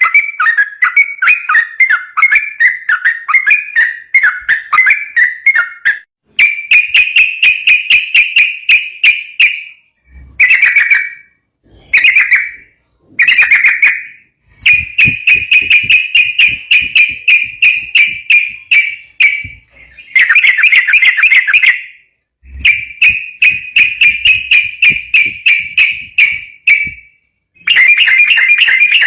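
Yellow-vented bulbul (trucukan) singing its fast 'ropel' song: loud phrases of quickly repeated, chattering high notes lasting a few seconds each, with short breaks between them.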